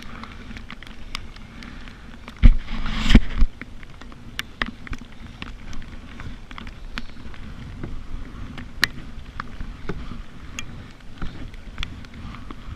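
Kayak paddling on a lake: scattered drips and light taps against the boat, with one louder splash and low thump about two and a half seconds in.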